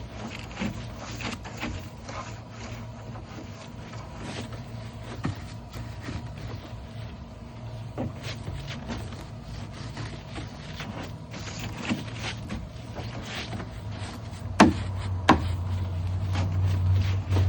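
Brush scrubbing the soapy plastic sides of a recycling bin in short, irregular strokes, over a steady low motor hum that grows louder near the end. Two sharp knocks come about three-quarters of the way through.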